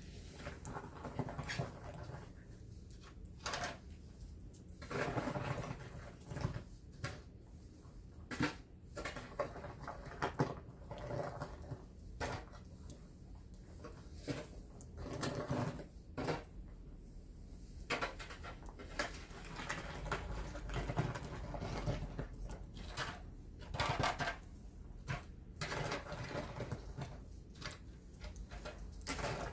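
Irregular knocks and clatters, with a few short scraping sounds.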